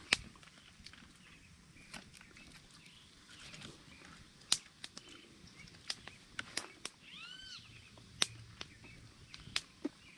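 A bird calls outdoors with a few arching notes that rise and fall, the clearest about seven seconds in, among scattered sharp clicks and snaps.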